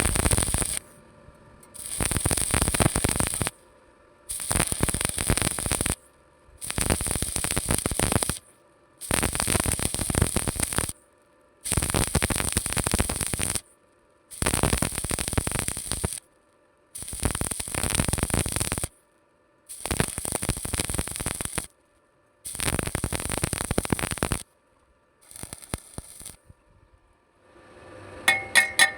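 Electric arc welding on steel plate in short bursts: about ten runs of crackling, hissing arc, each around two seconds long, with brief silent pauses between them and a shorter last one.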